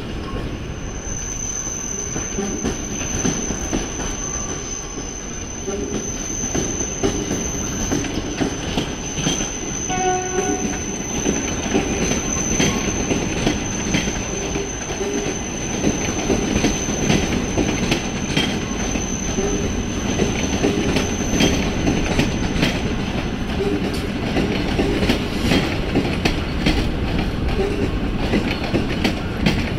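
Passenger train running through the rail corridor: a rhythmic clatter of wheels over rail joints, with a steady high-pitched wheel squeal that stops about two-thirds of the way through. A short horn note sounds about ten seconds in.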